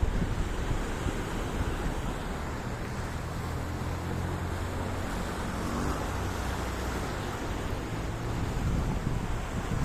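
Sea waves washing with wind buffeting the microphone. A low, steady motor hum runs through the middle few seconds.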